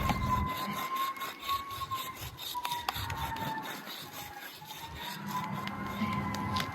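Drawing strokes: the scratchy rubbing of a drawing tool dragged back and forth over a surface, in irregular strokes. A faint steady tone wavers slightly in pitch behind it.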